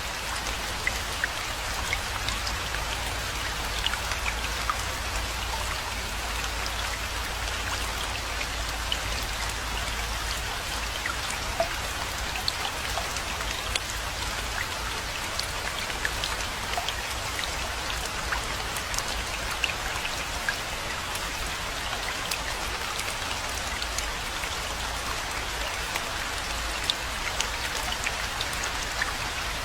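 Steady rainfall, an even hiss of rain with many individual drops ticking throughout, over a low steady rumble.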